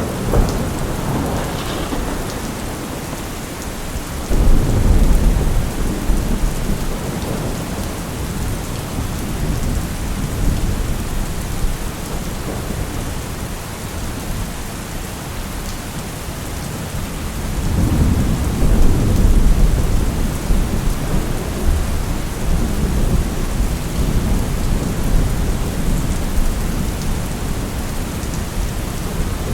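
Steady rain falling, with rolling thunder rumbling in twice: about four seconds in and again near eighteen seconds, each swell lasting a few seconds.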